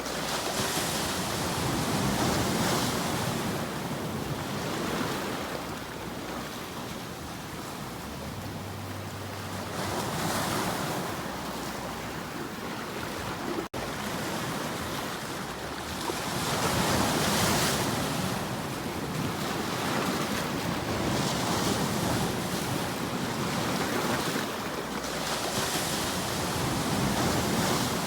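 Sea waves washing onto a shore, the surf swelling and falling away every few seconds. The sound cuts out for a moment about halfway through.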